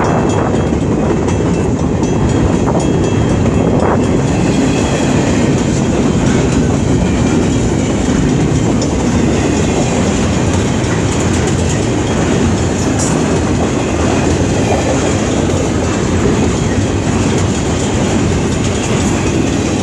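Intermodal freight cars of a long train rolling steadily past, a continuous rumble of wheels on rail with clickety-clack.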